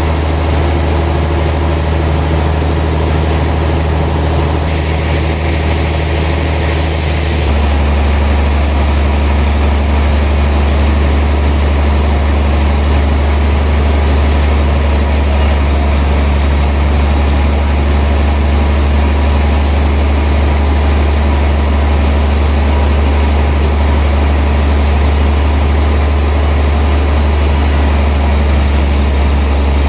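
Sawmill machinery running with a loud, steady low hum from its motor. The tone changes abruptly about seven seconds in, then runs steadily again.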